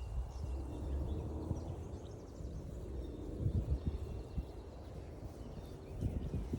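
Footsteps on a forest trail, a few soft thumps over a low rumble on the microphone, with faint bird calls in the background.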